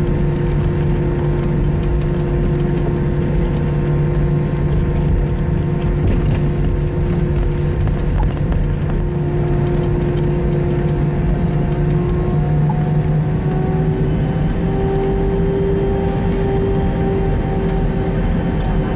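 Airbus A321 cabin noise while taxiing after landing: a steady low engine and airflow drone with whining tones, which rise slightly in pitch about two-thirds of the way through.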